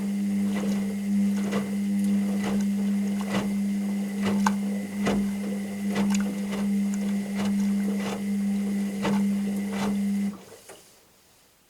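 Washing machine running its wash cycle: a steady motor hum with a clunk about once a second as the drum turns and the laundry tumbles. The motor stops near the end.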